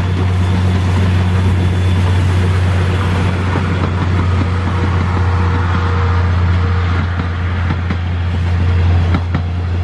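Steam-hauled passenger train running past: a loud, steady low hum with a scatter of short clicks from the wheels on the rails, the clicks thickest near the end.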